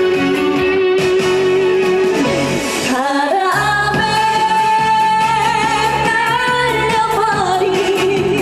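A female trot singer sings live over a full musical accompaniment, holding long notes with vibrato. A lower note is held first, and about three seconds in she moves up to a high note held for several seconds.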